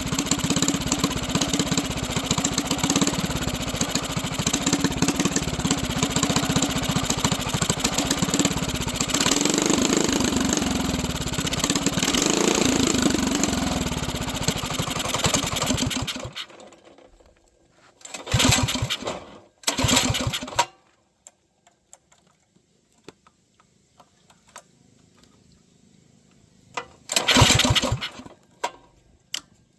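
Mini bike's small engine running, its pitch rising and falling for a few seconds in the middle, then cutting out suddenly about halfway through. After that, a few short bursts of about a second each as it is being restarted.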